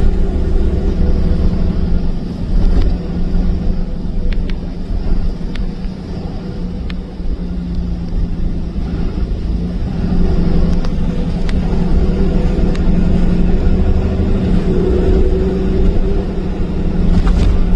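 Heavy truck running with a steady low engine drone and road rumble, with a few faint clicks.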